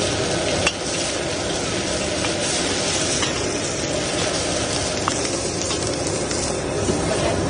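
Beaten egg frying in hot oil in a large steel wok, a steady sizzle, with a few light clicks of the steel ladle against the wok.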